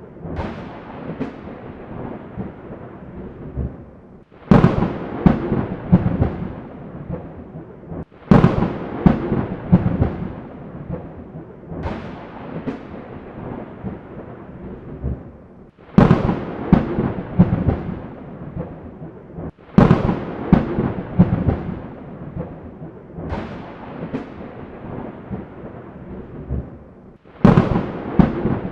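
Thunder clapping over steady rain: a sharp crack every three and a half to four seconds, each rolling off into a rumble that fades before the next.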